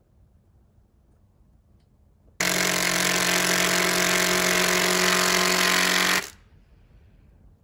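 Power tool running at one steady pitch for about four seconds, starting and stopping abruptly, typical of a drill or driver fixing a camera mount in place.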